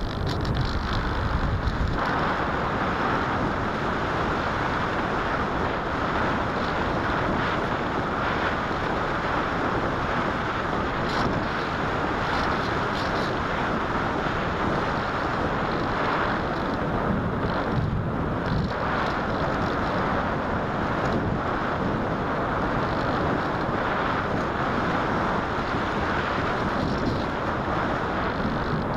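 Steady rushing of wind over a small camera's microphone, an even noise without a clear motor tone.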